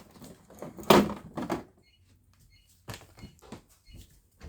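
A few knocks and clicks of objects being handled, the loudest about a second in, then a few lighter ones.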